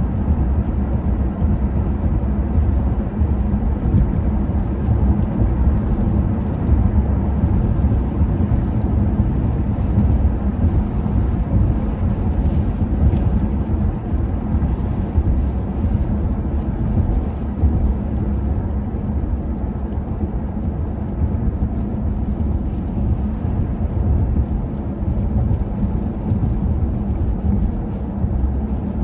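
Steady, loud low rumble of wind buffeting the microphone in a blizzard.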